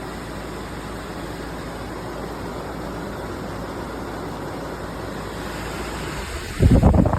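SereneLife portable air conditioner running with a steady, even noise, described as not quiet. Near the end a sudden, much louder rough rumble cuts in over it.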